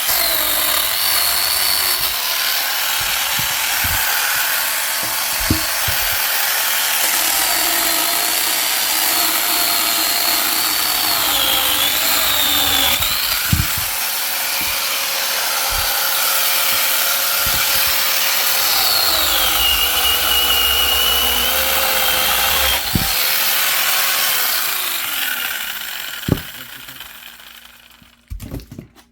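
Power saw cutting firewood logs, running steadily with its pitch dipping and rising as it bites into the wood. It winds down and stops about 26 seconds in, followed by a few knocks.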